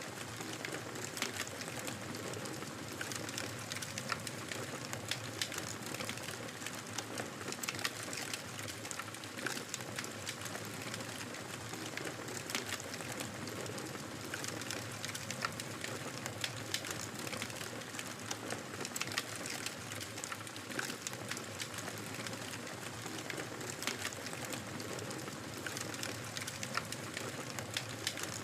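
Fireplace fire crackling steadily, with a constant soft hiss of burning wood and frequent small sharp pops and snaps scattered throughout.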